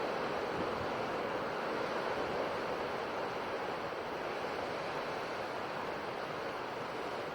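Ocean surf washing on a shore: a steady, unbroken hiss of waves, with no single crash standing out.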